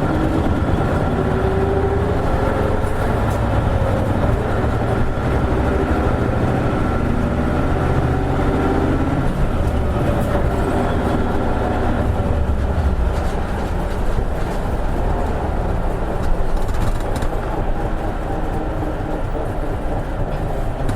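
Inside an Isuzu Erga city bus (KL-LV280N1) on the move: the diesel engine's note rises and falls as it pulls away through the gears, then settles into steadier running with road noise.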